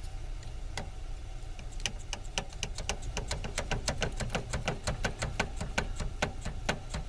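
Sharp metallic clicks from a hand swaging tool worked on the end of copper tubing to catch and expand its lip. They come sparsely at first, then several a second from about two seconds in until near the end.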